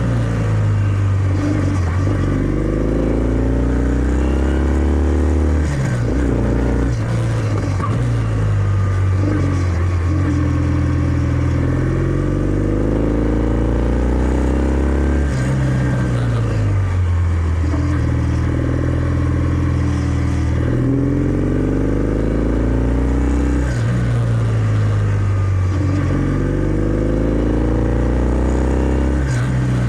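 Kawasaki W650's air-cooled parallel-twin engine running through its stock exhaust while riding. The engine pitch climbs and then drops back again and again as the bike accelerates and shifts up through the gears.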